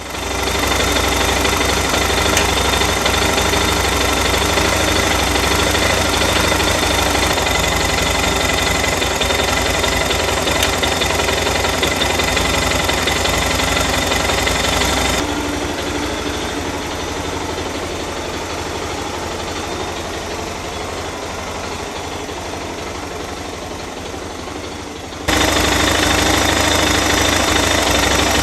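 Suzuki DR650's single-cylinder engine idling steadily. The sound abruptly turns quieter and thinner about fifteen seconds in, then comes back full about ten seconds later.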